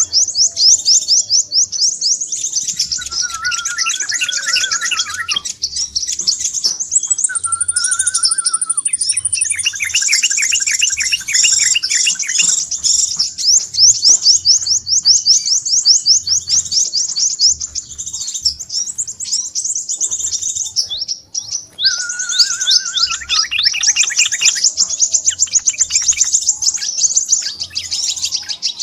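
Crimson sunbird (sepah raja) calls: rapid, high-pitched twittering trills repeated almost without pause, with a few lower warbled phrases between them. This is the agitated 'ribut' calling that is played to lure sunbirds.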